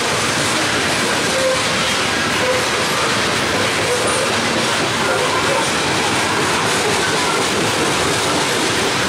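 Loaded coal hopper cars of a long freight train rolling past close by: a steady loud rumble and clatter of steel wheels on the rails, with brief wheel squeals every second or so.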